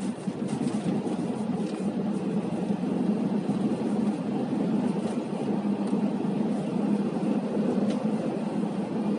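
Car driving, heard from inside the cabin: a steady low engine hum with road and tyre noise.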